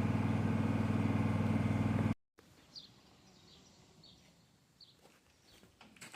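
An engine idling steadily, cut off abruptly about two seconds in. After that there is a quiet background with a few faint, short falling bird chirps and light clicks.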